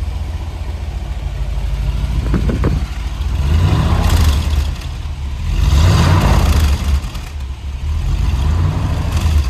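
6.0-liter LS2 V8 idling shortly after a cold start, with two throttle revs about four and six seconds in, the second the louder.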